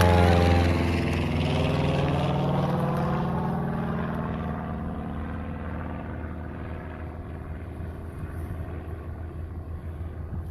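Propeller of an all-electric aircraft (an electric-motor Cessna Caravan) passing by and receding on its first climb-out. Its hum drops in pitch as it goes by, then fades steadily as it moves away.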